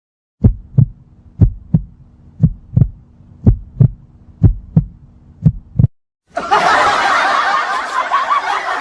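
Heartbeat sound effect: six low lub-dub double thumps, about one a second. About six seconds in it cuts off and a loud, dense, hissy sound effect starts abruptly.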